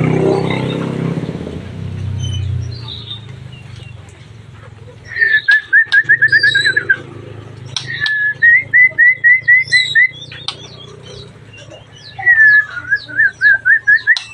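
Puling bird singing three phrases. Each opens with a downward slur and runs into about eight to ten rapid repeated whistled notes lasting roughly two seconds, starting about five, eight and twelve seconds in.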